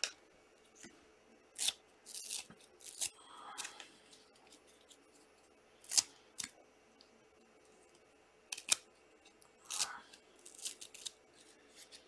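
Trading cards being handled and flipped through: a scatter of short sliding swishes and light clicks at uneven intervals.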